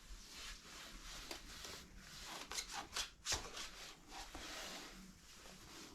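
Faint rustling and scraping of a dust sheet and fallen nest debris being handled, with a cluster of sharper scrapes and clicks from about two and a half to three and a half seconds in.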